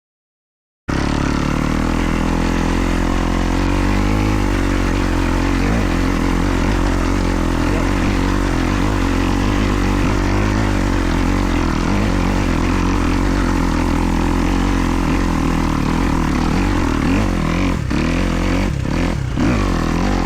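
Kawasaki KX250 four-stroke single-cylinder motocross engine running under throttle while riding, its pitch wavering as the throttle varies, with a few short dips near the end. The sound starts abruptly about a second in after dead silence.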